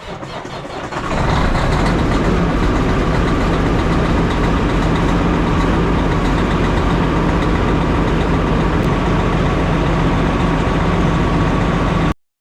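Semi truck's diesel engine running steadily, growing louder about a second in and then holding a constant rumble; it cuts off abruptly near the end.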